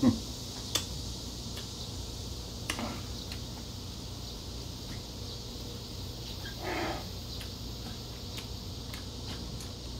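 Quiet eating sounds: a few faint clicks and smacks of chewing over a steady low room hum, with a short murmur about seven seconds in.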